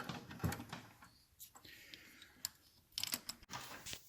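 Scattered light clicks and rattles, with a quick cluster of sharper clicks about three seconds in, as a motorcycle drive chain is handled and fitted onto the front sprocket.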